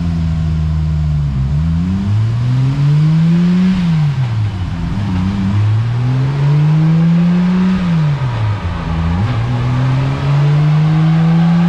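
Turbocharged Toyota 2JZ-GTE straight-six running under load on a chassis dyno, climbing steadily in revs for two to three seconds and then dropping back, three times over.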